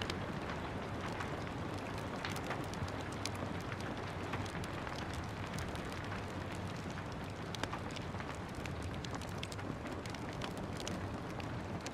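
Steady rain with wood fire crackling, irregular sharp pops and snaps over a constant hiss.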